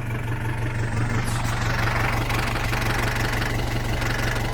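Isuzu Elf mini dump truck's 4BE1 four-cylinder diesel engine idling steadily, getting a little louder in the first two seconds. It runs clean.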